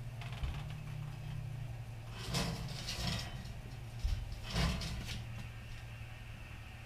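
Several knocks and clunks of a motorcycle being rolled off a hitch-mounted carrier, over a steady low hum.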